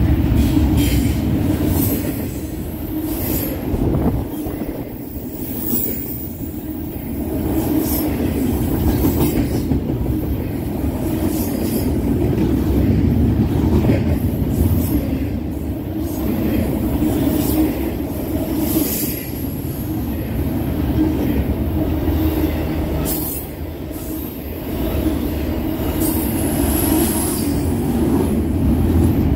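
Double-stack intermodal freight train passing close by: a steady low rumble of steel wheels on rail, with irregular clanks and clicks from the well cars and an occasional thin, high wheel squeal.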